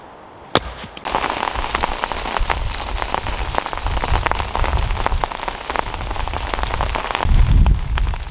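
A single sharp wooden knock about half a second in, as a mallet strikes a stake. Then a heavy shower of rain sets in, pattering densely with countless small ticks over a low rumble that swells near the end.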